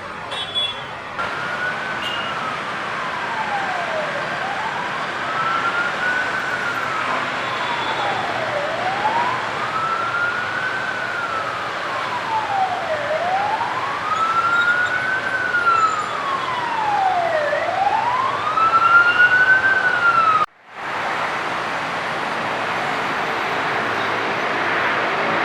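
A wailing siren, its pitch rising and falling slowly about every four and a half seconds over a steady background rush. Near the end the siren cuts off abruptly and only a steady rushing noise remains.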